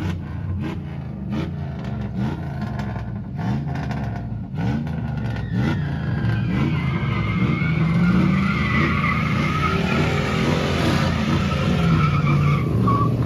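Engine revved repeatedly, pitch rising and falling, then from about six seconds in held high while the tyres squeal steadily, as in a burnout.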